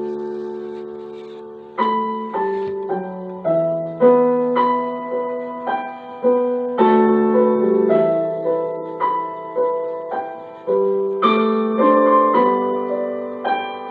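Background piano music: slow, gentle notes and chords, each struck and left to ring out.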